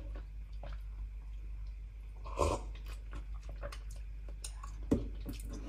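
Close mukbang eating sounds: chewing with small wet mouth clicks and sipping from a mug. There is a short mouth sound about two and a half seconds in, and a single light knock near the end as the mug is set down on the counter.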